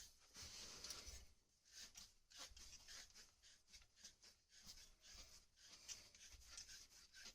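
A sharp click, then faint, irregular scraping and rubbing strokes of a hand tool working on the copper pipe, about two a second.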